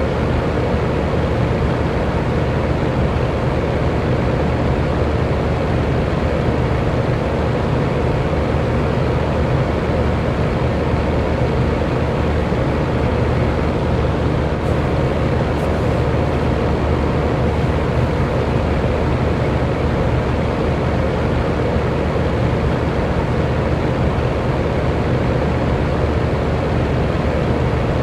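Electric fan running steadily: an even rush of air with a faint steady hum under it.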